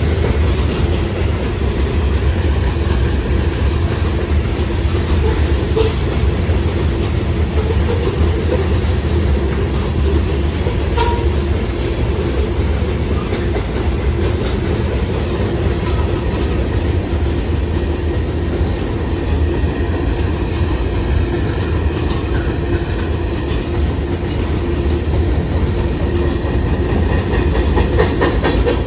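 Freight cars of a long train rolling past on the rails, a loud steady rumble of wheels with clickety-clack and a regular light ticking through the first half.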